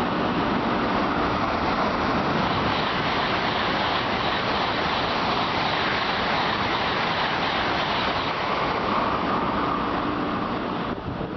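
A Tokaido Shinkansen train running past the platform, a loud, steady rushing rumble that starts dying away right at the end.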